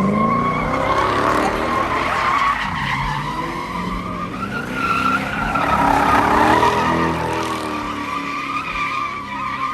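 Car spinning its tires: a steady tire squeal over the engine held at high revs, with the engine pitch climbing at the start.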